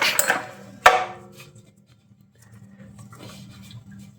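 Small single-cylinder minibike engine's recoil starter pulled over, a brief noisy whir that fades in the first half second, then a single sharp metallic knock about a second in. A faint low hum and a few light clinks follow.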